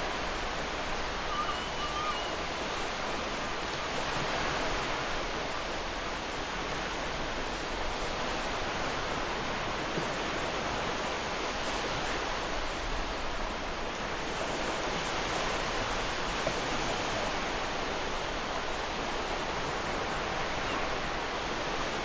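Sea surf breaking and washing on a sandy beach: a steady rushing noise that swells and eases slowly as waves come in.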